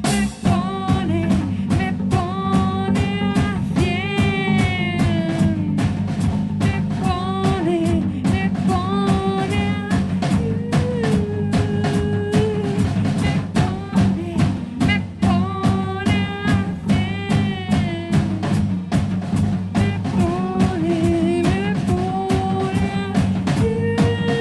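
Post-punk music played live by a duo: electric bass, a drum kit keeping a steady beat, and a woman's voice singing over them.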